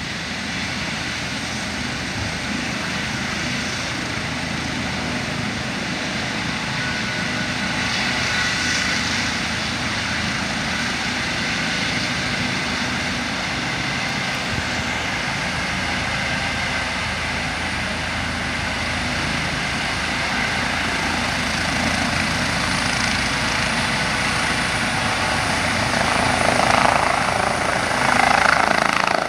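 Rescue helicopter running with its turbine and rotor going steadily, a high turbine whine over the rotor noise, growing a little louder near the end.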